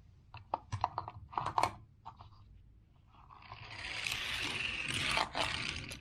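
Hands handling small plastic and die-cast toys: a quick run of light clicks and taps, then a longer scraping rustle from about three seconds in.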